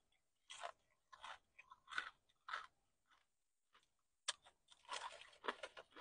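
Close-miked chewing of crispy fried chicken skin: short crunches about every half second, then a quick run of crunches about four seconds in.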